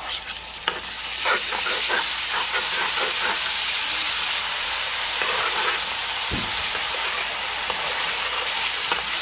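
Onions frying in hot oil, the sizzle growing louder about a second in as ground garlic and pepper go into the oil. A metal spoon scrapes and clinks against the pot as the mixture is stirred.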